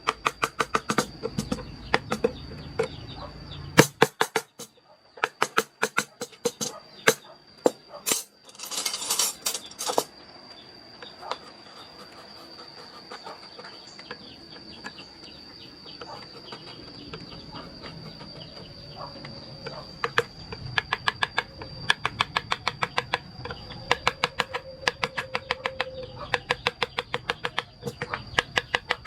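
Mallet striking a carving chisel into wood, in runs of sharp taps about three to four a second, with a short scrape of the blade in between.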